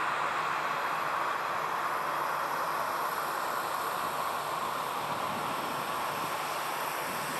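Jet airliner's engines, a steady rushing noise that slowly falls a little in pitch and level.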